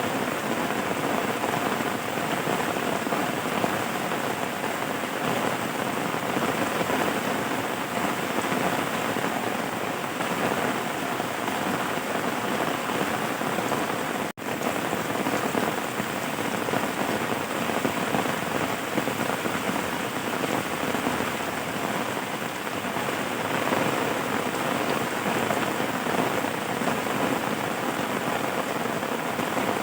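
Steady rain falling on a surface, an even patter of drops. It drops out for a split second about halfway through.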